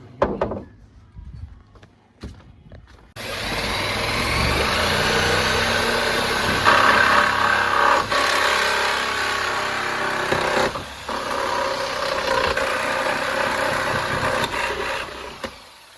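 Reciprocating saw (Sawzall) running and cutting through framing nails, starting suddenly about three seconds in and stopping shortly before the end.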